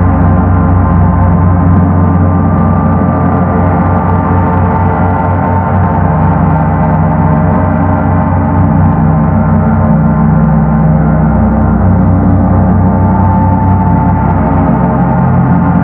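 Paiste Sedna planet gong sounding a sustained, rumbling drone of many overlapping steady tones, heaviest in the low range, held at an even level with no fresh strike.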